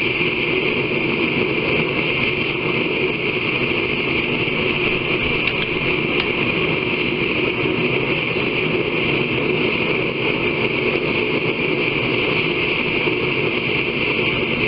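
A forge running with forced air: a steady rushing noise with no hammer blows.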